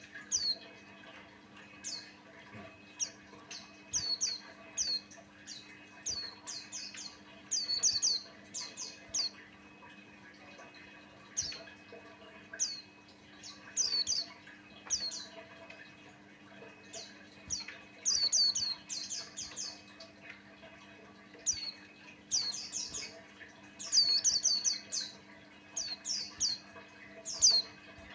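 White-eye (pleci Buxtoni) calling: short, high chirps that fall in pitch, in quick runs of two to five, repeated every second or so. A faint steady low hum runs underneath.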